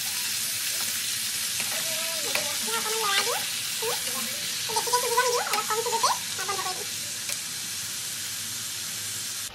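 Sliced tomatoes and onions sizzling steadily in hot oil in a kadai, stirred with a slotted metal spatula that scrapes and clicks against the pan, the clicks thickest in the middle.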